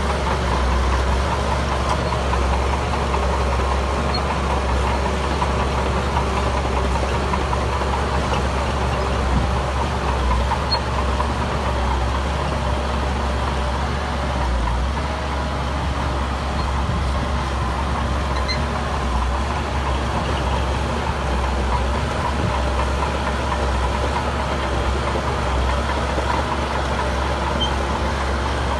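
Heavy diesel earthmoving machinery running steadily at a low, even engine speed, with a deep rumble throughout.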